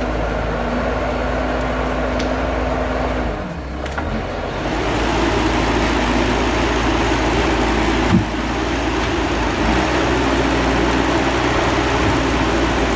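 Diesel engine of a heavy forestry machine running steadily. About three and a half seconds in, the sound briefly drops, then comes back as louder, harsher machine working noise, with one short knock a few seconds later.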